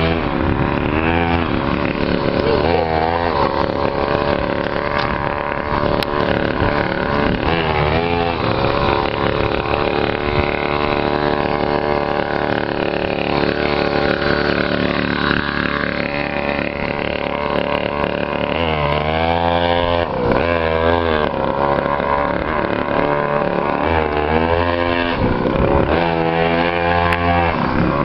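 Small motorcycle engine running as the bike is ridden, its pitch repeatedly rising and falling as the throttle is opened and eased off, with a cluster of revs near the end.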